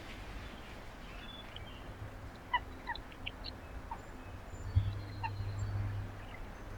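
Birds calling: a scatter of short, clipped call notes, some in quick pairs. A low hum comes in about two thirds of the way through.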